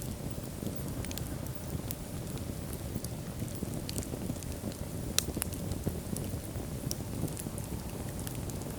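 Wood fire burning in a fireplace: a steady low rush of flames with irregular sharp crackles and pops, the loudest pop a little past five seconds in.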